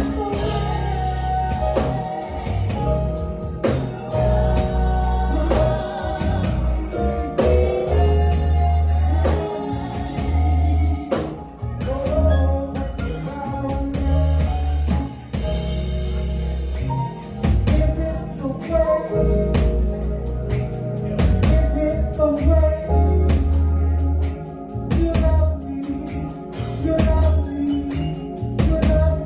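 Gospel song with a solo singer's voice over a band, with deep bass notes and a drum kit keeping time.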